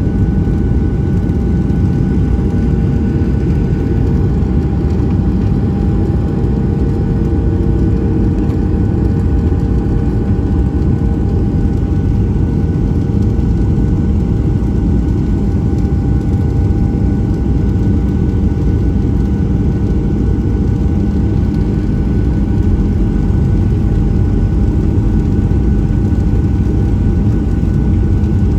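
Steady cabin noise of a Boeing 737-700 with its CFM56-7B jet engines running: a dense, even rumble with a few constant whining tones over it, heard inside the cabin.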